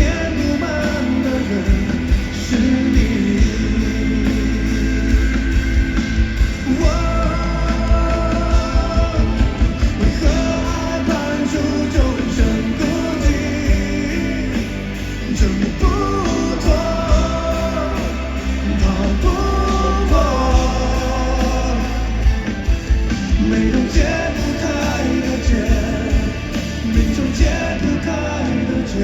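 Live pop-rock band music in a stadium concert: drums and bass under a melodic lead line, with some singing.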